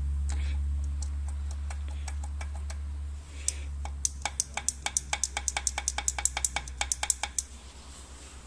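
Mercedes Sprinter M611 diesel engine running with a steady low hum and sharp repeated knocks. The knocks come a few a second at first and quicken to about six a second in the second half. This is the engine knock under diagnosis.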